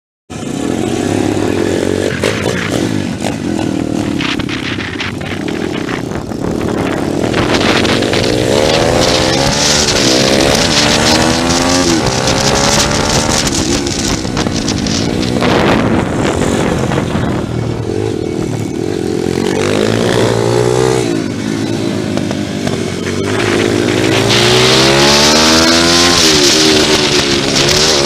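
Pit bike engine being ridden hard, its pitch rising under throttle and falling back again and again through the lap. A rushing hiss rises over it during the fastest stretches, about 8 to 12 seconds in and again near the end.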